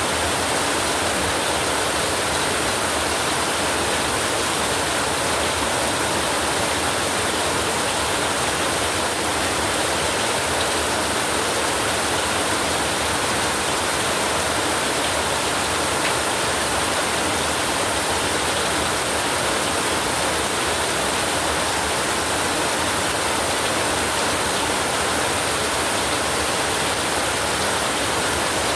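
Heavy rain on a tin roof, a steady dense hiss with no single drops or thunder standing out.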